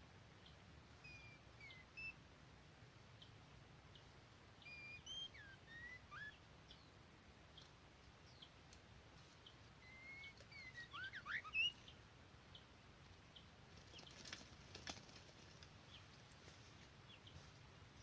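Faint bird calls: three short clusters of chirps and quick whistled notes, the last and loudest about eleven seconds in, followed by a few faint crackling ticks.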